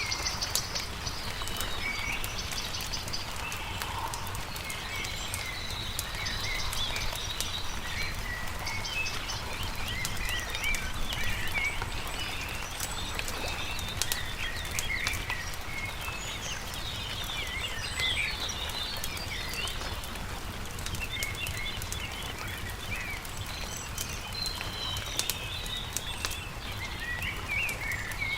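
Songbirds chirping and singing continuously, with a campfire crackling in sharp little pops underneath.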